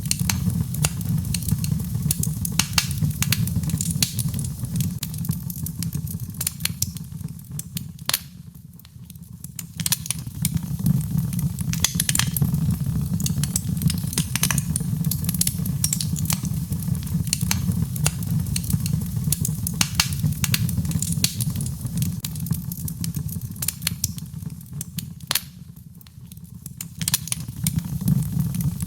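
Birchwood fire burning in a fireplace: frequent sharp crackles and pops over a steady low rush of flame. The rush and crackling ease off briefly twice.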